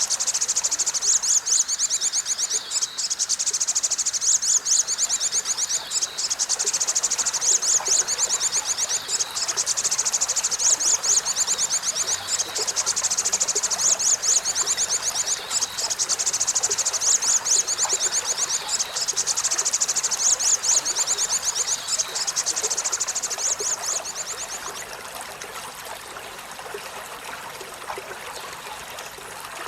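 Olive-backed sunbird singing a long, fast, high-pitched trill of rapidly repeated notes, broken by brief pauses and stopping about 25 seconds in. A steady rush like running water lies underneath and carries on after the song stops.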